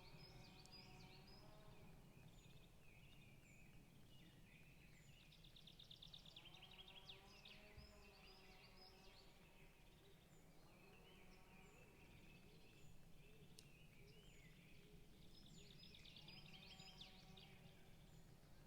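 Faint forest birdsong: several birds singing in overlapping phrases, with a short high chirp repeating about once a second, over a steady low hum.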